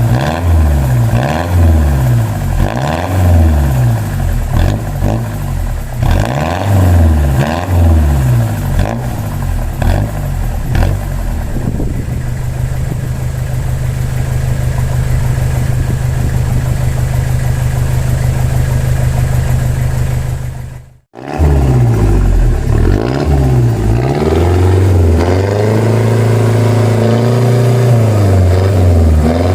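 Toyota Hilux 3L 2.8-litre naturally aspirated four-cylinder diesel running through a newly fitted 2.5-inch exhaust with a small silencer. It is revved in a series of quick throttle blips, then held at steady raised revs for several seconds. The sound drops out briefly about two-thirds of the way through, then come more blips and a longer held rev near the end.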